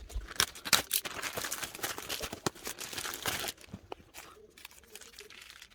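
Packaging wrapper crinkling and rustling, with sharp crackles, for about three and a half seconds, then only a few faint clicks.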